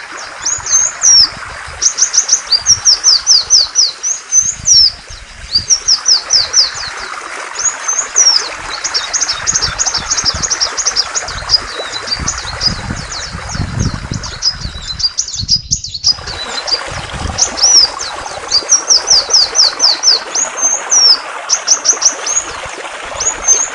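A songbird singing rapid runs of high, sharp chirps and trilled phrases, over a steady rush of flowing water. A short gap about 16 seconds in briefly cuts out both sounds.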